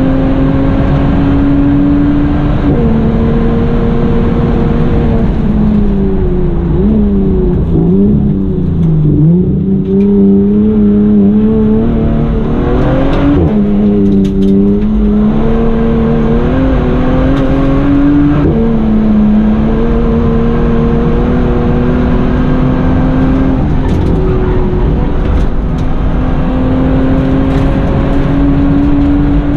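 Bentley Continental GT engine heard from inside the cabin at full hill-climb pace. Its note climbs steadily in each gear and drops at each upshift. About a third of the way in it falls and wavers for a few seconds, then pulls up through the gears again.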